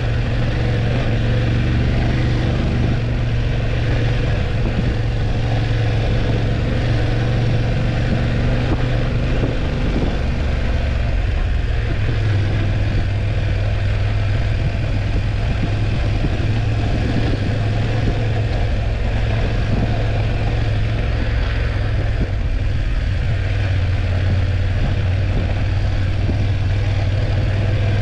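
BMW F850GS parallel-twin engine running under way, with wind and road noise. The engine note holds steady, easing slightly lower a couple of times.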